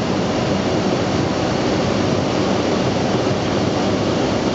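Steady airflow and engine noise of an airliner in flight, heard on the flight deck.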